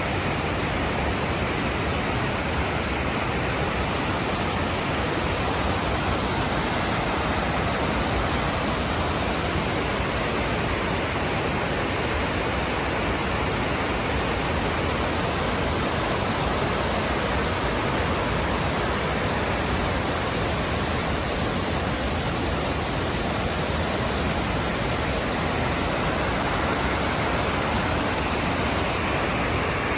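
Water of Fukiware Falls rushing in a steady, unbroken roar.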